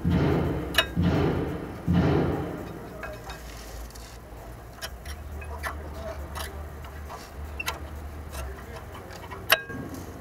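Metal brake parts being handled while the second brake pad is taken from the caliper: scattered sharp metallic clicks and clinks, with two short rough scraping noises in the first two seconds and one louder click near the end.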